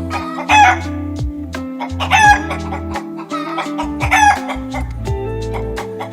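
Chicken calling three times, short loud cries about two seconds apart, over background music with a steady bass line.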